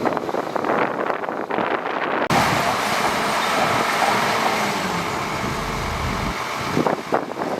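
A bulldozer's diesel engine running, with heavy noise over it. It cuts in abruptly about two seconds in and drops away near the end. Before and after it there is uneven crackling noise.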